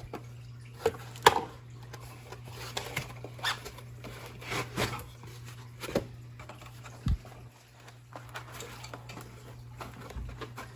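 Packing material and 3D-printer parts being lifted out of their box and handled: scattered light knocks, taps and rustles, with one dull low thud about two-thirds of the way in, over a steady low hum.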